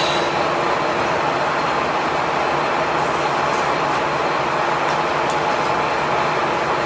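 Train running on the rails, heard from inside the car as a steady rumble. A few faint clicks come in the middle, and a sharp knock near the end.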